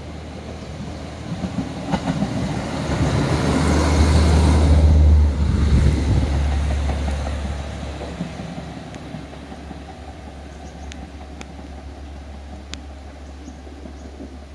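KiHa 40 diesel railcar passing close by, its diesel engine giving a low steady drone under the rumble of wheels on the rails. It builds to its loudest about four to five seconds in, then fades steadily as the railcar draws away.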